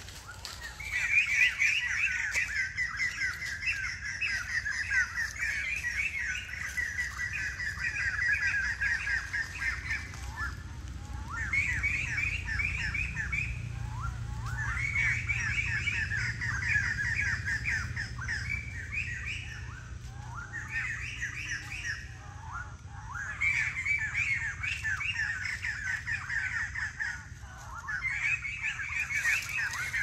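A bird calling in rapid runs of short, repeated high notes. The runs last a few seconds each and come again and again with short pauses between.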